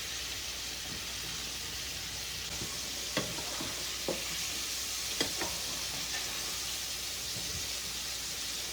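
Battered shrimp frying in hot cooking oil: a steady sizzle with a few faint pops.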